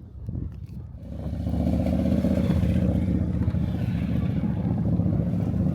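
An engine running, swelling up about a second in and then holding a steady, loud drone.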